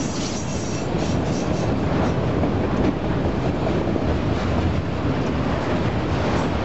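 Freight train of autorack cars rolling past close by: a steady rumble of steel wheels on the rails, with a faint high squeal in the first second.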